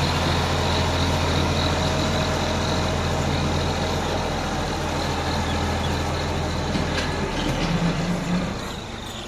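Ford 3610 tractor's engine running steadily with a low drone, fading in the last second or so.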